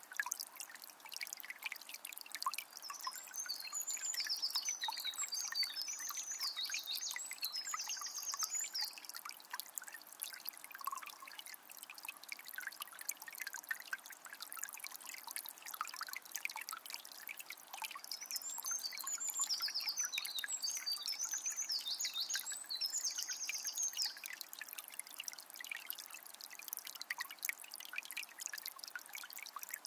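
Forest stream trickling and splashing, a steady hiss of water full of small drips and plops. A songbird sings a long twittering phrase twice, about three seconds in and again near eighteen seconds.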